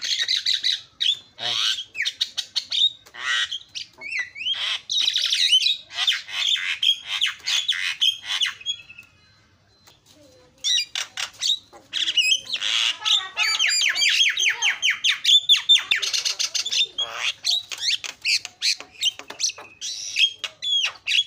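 Javan myna (jalak kebo) singing in a loud, varied chattering stream of harsh squawks, whistles and rapid repeated notes, pausing for about a second and a half near the middle.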